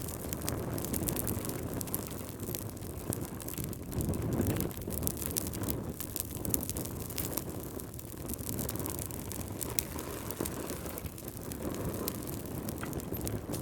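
Wood fire crackling in a fireplace: many small sharp pops and snaps over a steady low rushing noise.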